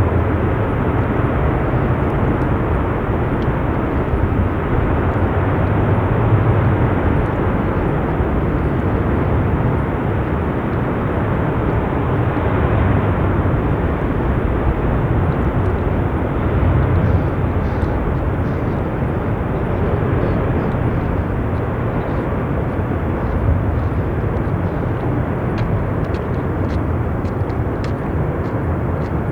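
Jet airliner engine noise running steadily, mixed with a low rumble from gusty wind on the microphone that swells and fades.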